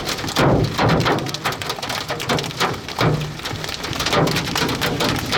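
Heavy rain and hail pelting a vehicle, with a dense run of sharp hits against the body and windshield over a steady downpour.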